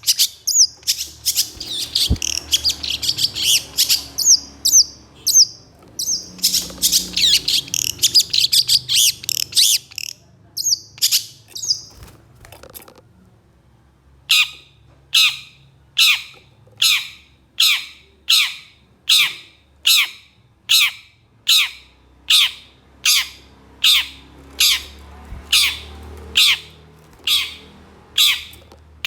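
Long-tailed shrike singing: a dense, fast jumble of high chattering notes for about ten seconds. After a short pause comes a steady run of harsh, down-slurred calls at about one and a half a second, the rough 'shots' that cendet keepers prize.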